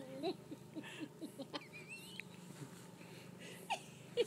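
Faint bird calls: short, scattered chirps with a higher warbling call about a second and a half in.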